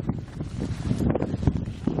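Wind buffeting the microphone: an irregular low rumble in gusts, with a rushing noise over it.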